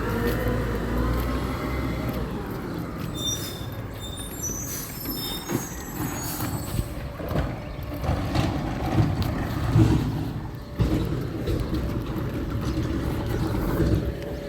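Garbage truck engine running and slowing, with short high squeals of air brakes a few seconds in, then irregular knocks and thumps.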